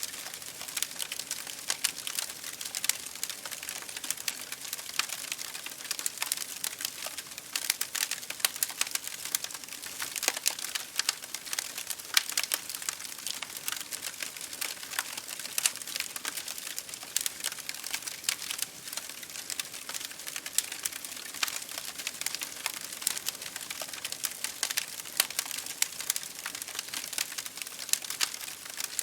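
Wood fire crackling in a fireplace, with rapid irregular pops and snaps, over a steady hiss of rain striking a window pane.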